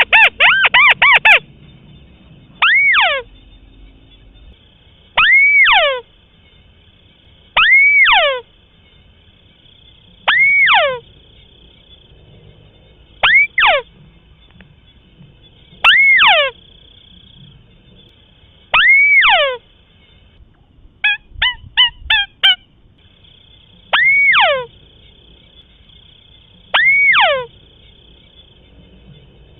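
White-browed crake calling: one nasal note repeated about every two and a half seconds, each rising briefly then dropping steeply in pitch. A fast run of chattering notes comes right at the start, and a quick cluster of short notes about three-quarters of the way through.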